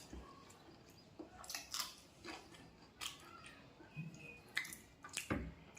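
A person chewing and biting food: a string of irregular short clicks and smacks.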